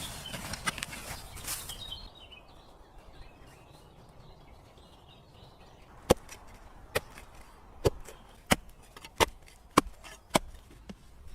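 Wood being chopped: about seven sharp strikes, a little under a second apart, starting about halfway through. Before them comes a two-second rush of noisy rustling, then faint bird chirps.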